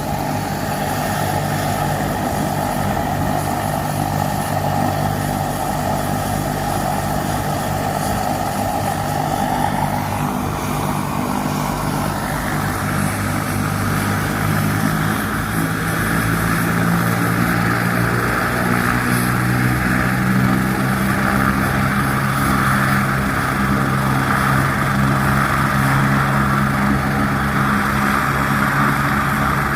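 Medical helicopter running on the ground: a steady low rotor and engine drone with a turbine whine that rises in pitch about a third of the way through, then holds steady.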